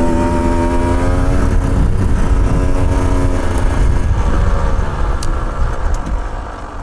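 Motorcycle engine running under way, its pitch easing down over the first couple of seconds, then picking up again before the sound drops off near the end, over a heavy low rumble.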